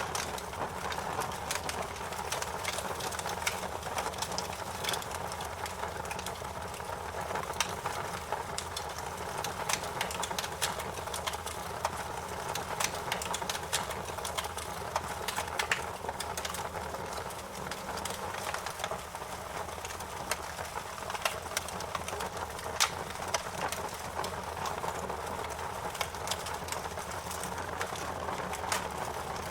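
Campfire crackling: frequent irregular sharp pops and snaps over a steady hiss.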